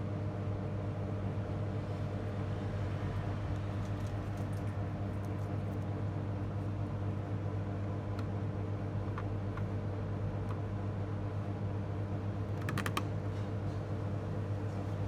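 Steady low electrical hum, with a few light clicks scattered through it and a short rattle of clicks about thirteen seconds in.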